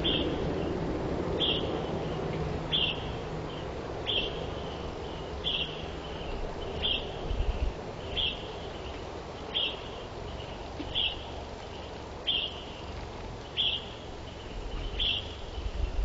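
A small bird's short, high chirp repeated at an even pace, about once every second and a half, over a low wind rumble.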